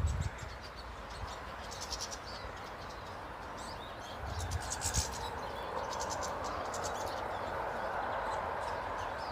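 Small birds calling, heard as short bursts of rapid, high-pitched trilling several times over a steady background hiss, with a few soft low thumps about halfway through.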